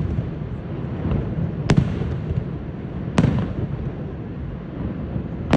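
Fireworks shells bursting overhead: three sharp bangs about two seconds apart, over a steady low rumble.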